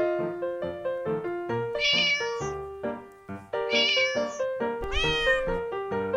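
Light keyboard background music with three cat meows over it: one about two seconds in, one about four seconds in, and a longer, pitch-bending one about five seconds in.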